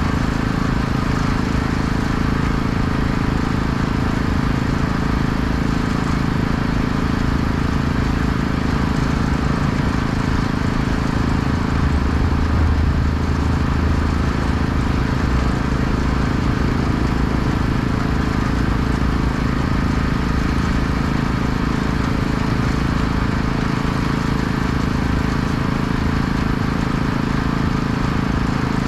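An engine running steadily at constant speed, a little stronger about halfway through, with a steady hiss over it.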